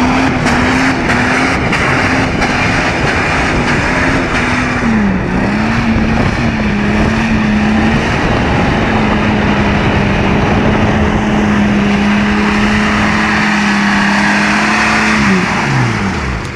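Car engine held at high revs while the car drifts on a wet road, its pitch wavering a little and then holding steady, over a dense steady hiss. Near the end the revs drop away sharply.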